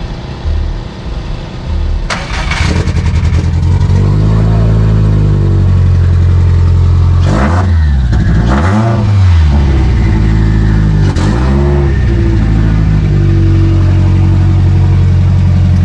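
Turbocharged Subaru STI flat-four engine catching about two seconds in, then idling with several quick rev blips that rise and fall.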